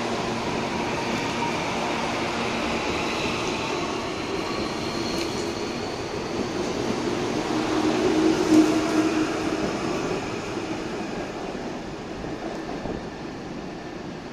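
CPTM electric commuter train pulling away along the platform, wheels and running gear with a whine that rises in pitch. It gets loudest about eight seconds in as the cars pass close, then fades as the train leaves.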